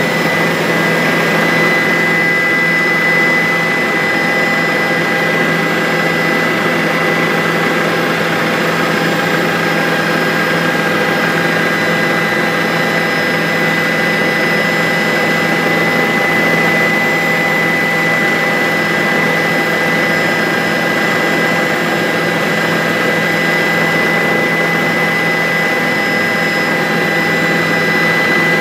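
Bell 407 helicopter in steady flight: the single turboshaft engine and rotors make a constant, loud noise with a steady high whine over it.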